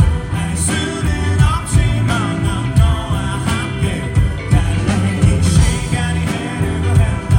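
Rock band playing live with a lead vocal over drums, bass and guitars.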